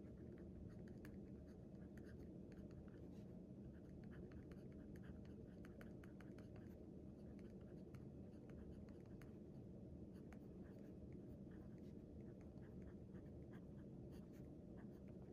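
Handwriting on paper: faint, quick scratching strokes and small ticks of a pen tip, in an irregular run, over a steady low room hum.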